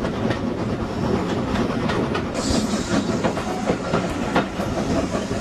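Heritage railway train running along the track: a steady rumble with wheels clicking over rail joints, and a short hiss about two and a half seconds in.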